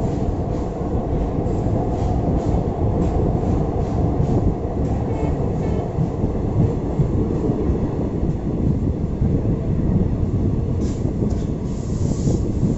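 Passenger train running on the line, heard from aboard: a steady low rumble of wheels on rail, with scattered clicks as the wheels pass over rail joints, more of them near the end.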